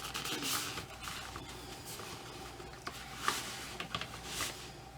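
Soft rustling and a few light clicks and taps from handling a ball-jointed doll and its cloth outfit while dressing it.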